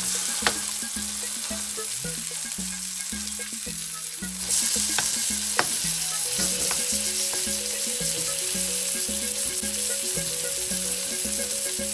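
Chicken kebab patties frying in a pan, a steady sizzle that turns louder about four and a half seconds in, with a few light utensil clicks. Background music with a steady beat plays under it.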